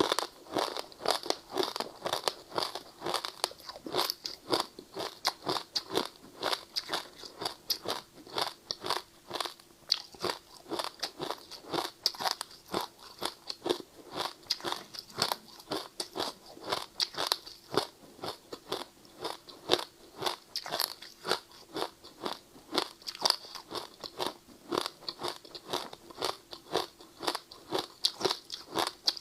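Passion-fruit ice being bitten and chewed: a steady run of sharp crunches, about two to three a second.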